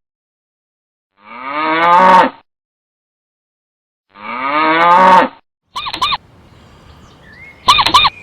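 Cow mooing twice, two long moos a few seconds apart with silence between. About two-thirds through, short, higher-pitched calls from a different animal begin, coming in pairs.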